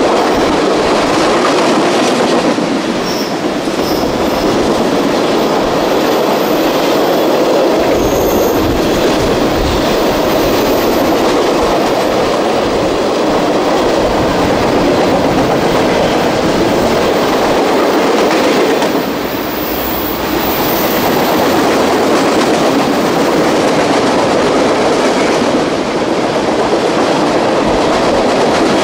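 Freight cars of a mixed manifest train (tank cars, boxcars, centerbeam flatcars) rolling past: a loud, steady rumble and clatter of steel wheels on the rails.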